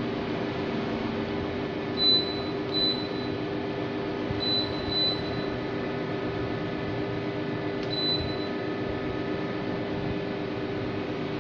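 A Daikin split air conditioner running with a steady hum and fan noise. It gives five short high beeps, two close together about 2 s in, two more about 4.5 s in and a single one about 8 s in, the kind a split unit gives when it accepts remote-control commands.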